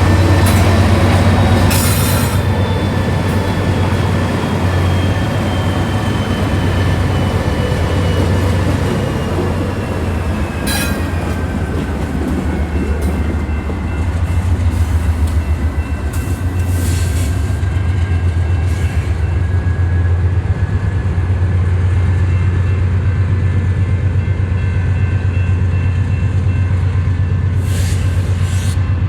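Freight train rolling slowly past over a steady low rumble, with thin squealing tones from the wheels that slowly fall in pitch and a few sharp clanks.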